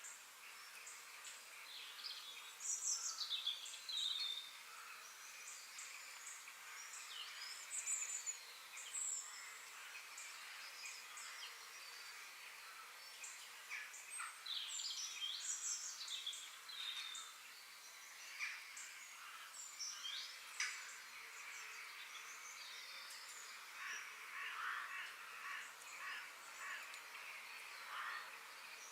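A chorus of wild birds: many short chirps and quick sweeping notes overlapping, some louder bursts among them, over a faint steady hiss.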